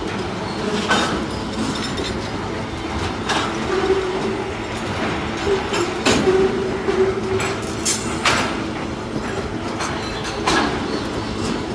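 Freight train cars rolling past, a steady rumble of wheels on rail with sharp clacks every second or two as the wheels cross rail joints.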